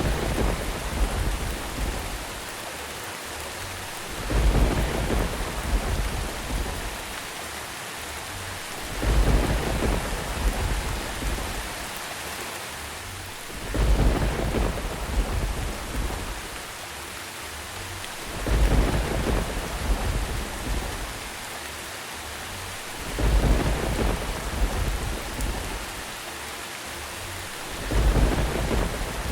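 Steady rain with rolling thunder rumbles that come back at even intervals, about every four and a half to five seconds, each swelling and fading over about two seconds.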